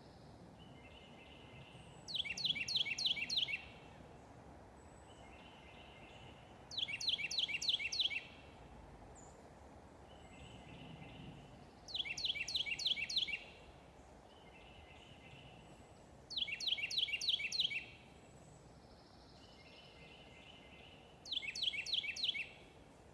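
A songbird singing the same short phrase five times, about every four and a half seconds: each phrase is a quick run of five or six sharply falling whistled notes lasting about a second and a half. Fainter bird chatter sounds between the phrases.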